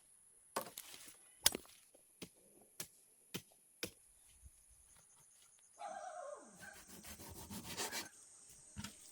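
Sugarcane stalks being chopped with a blade: a series of sharp cracks about every half second, then, a little past halfway, a louder rustling with a falling creak as cut cane is handled.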